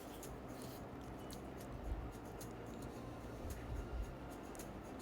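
Quiet room tone with a faint low rumble and scattered small ticks, with soft knocks about two and four seconds in.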